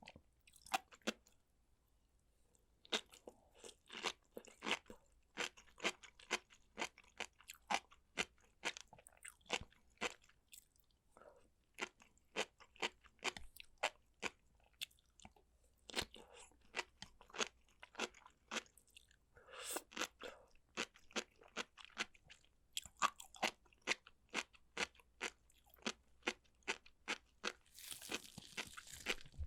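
A person chewing food close to the microphone: a steady run of crisp crunching chews, about two a second, with a short pause about a second in.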